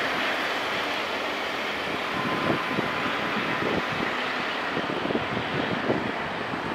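Freight train rolling away on the rails: a steady rumble and hiss of wheels on track, with a few faint clicks.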